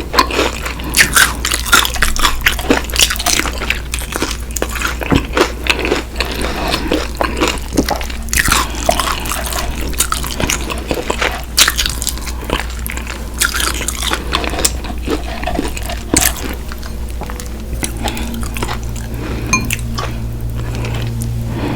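Close-miked eating of fried chicken and cheese fries: crisp crunchy bites and chewing, with the odd clink of a dish. The crunching thins out late on, and a steady low hum comes in near the end.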